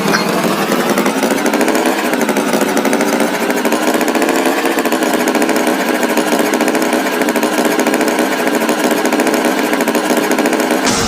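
Tractor engine sound effect running steadily with a fast, even rattle.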